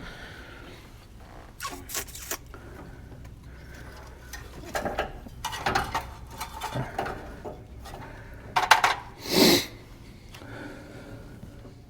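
Scattered knocks, clicks and rubbing of hands and tools working around an engine hung from an engine hoist, with a loud short rushing burst about nine and a half seconds in.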